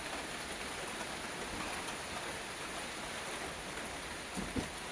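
Steady rain falling, an even hiss of drops. Near the end there are a couple of brief soft thumps.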